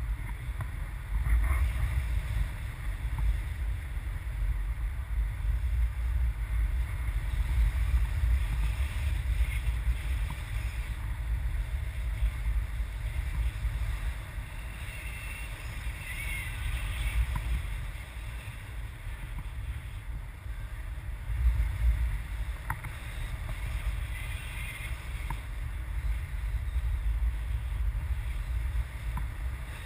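Wind buffeting the microphone: a gusting low rumble that swells and eases, with a few faint ticks.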